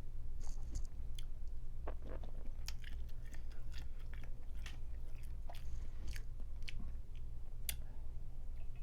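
Close-miked chewing and biting of boiled crawfish and seafood, with many scattered sharp clicks and crackles, over a steady low hum.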